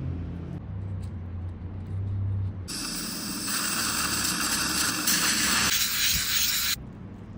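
Dental spray hissing loudly for about four seconds, starting a little under three seconds in and cutting off suddenly. Before it there is a low steady hum from dental equipment.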